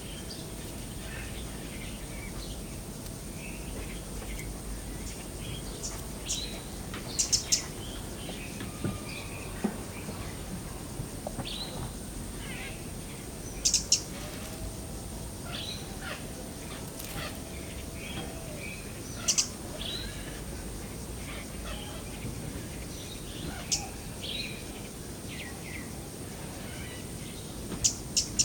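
Wild birds chirping and calling in short, scattered notes, a few of them sharp and louder, over a steady low background rumble.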